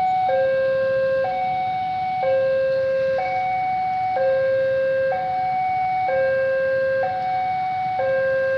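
Railway level-crossing warning alarm sounding a steady two-tone signal, a higher and a lower tone alternating about once a second: the crossing is closed for an approaching train.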